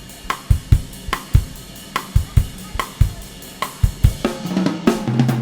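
Recorded song with a drum kit playing a steady beat of bass drum, snare and cymbals, with no singing. A bass line and guitar come in near the end.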